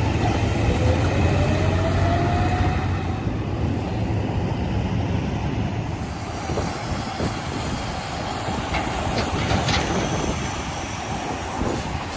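Heavy diesel garbage truck driving by, its engine pulling with a rising whine in the first few seconds, then rumbling on with the body rattling and clattering.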